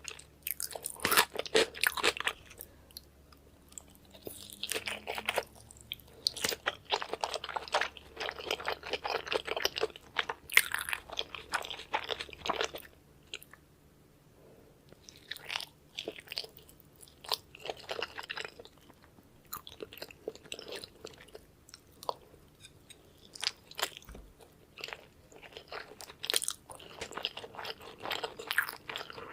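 Close-miked chewing of salmon sushi and sushi rolls: wet, crackling bites and mouth sounds in bouts of a few seconds, with quieter pauses between them.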